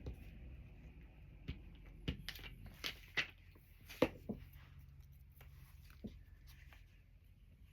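Magazine paper cutouts rustling, with scattered light taps and clicks as a piece is handled and pressed into a glue book; the sharpest click comes about four seconds in.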